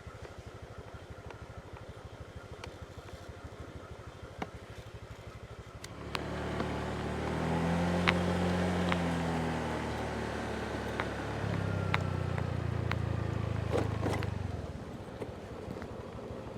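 Motorbike engine ticking over at a low, steady idle, then pulling away about six seconds in: it climbs in pitch, eases off, rises again, and drops back to a low idle near the end.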